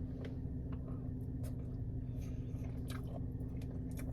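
Close-up chewing of syrup-covered pancakes: scattered soft, wet mouth clicks and squishes. A steady low hum runs underneath.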